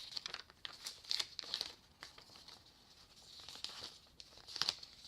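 Plastic packaging crinkling and rustling in handling, in irregular bursts with a louder cluster near the end.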